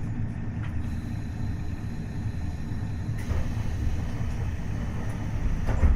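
Steady low rumble of a KiHa 40-series diesel railcar with its DMF15HSA diesel engine, with a few faint clicks, the loudest near the end.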